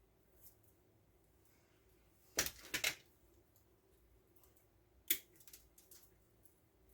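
Sharp clicks and clatter of small hard parts and tools being handled while wiring a controller: a quick cluster of three about two and a half seconds in, and another sharp click a little after five seconds followed by a few lighter ticks.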